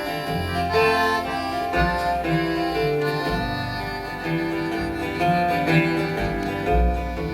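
Live band playing an instrumental passage between sung verses: pitched melody notes over a pulsing bass line.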